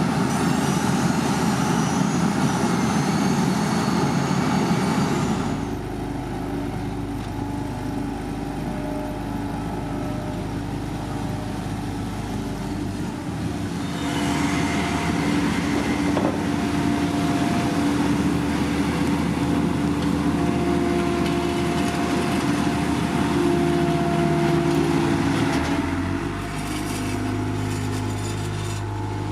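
Heavy construction machinery engines running steadily on a road-paving site. The sound changes abruptly three times, about five, fourteen and twenty-six seconds in.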